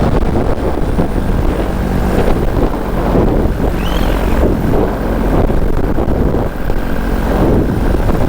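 Paramotor engine and propeller running steadily in flight, with wind buffeting the microphone.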